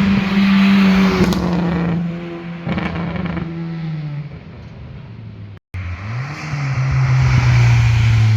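A car's engine passing, its note falling in pitch and fading as it pulls away. After a sudden break, another car's engine comes in loud, its note rising briefly and then holding steady.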